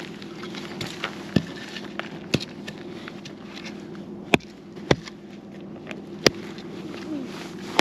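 Wood campfire burning, crackling with scattered sharp pops, three louder ones in the second half, over a steady low hum.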